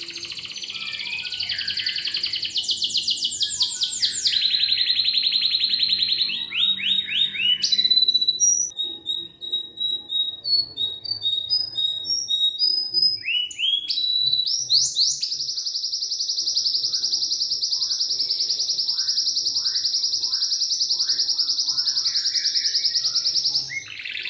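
Domestic canary singing a long, unbroken song of fast trills and repeated chirps, then one long steady trill from about fifteen seconds in until shortly before the end.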